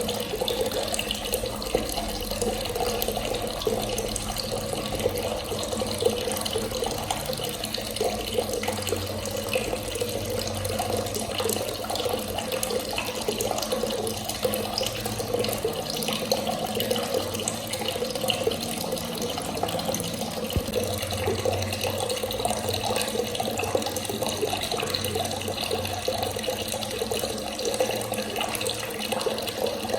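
Water running steadily from a tap and splashing, with an even, unbroken flow.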